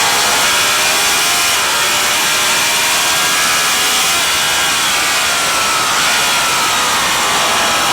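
Racing motorcycle engine running hard at high revs, its note rising and falling with the throttle, over a steady rush of wind noise.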